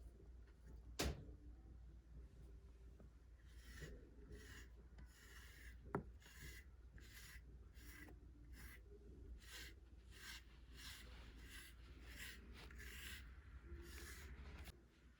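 A brush stroking through a cat's fur, a faint rhythmic rasp at about one and a half strokes a second that starts about four seconds in. Two sharp clicks come about one second and six seconds in.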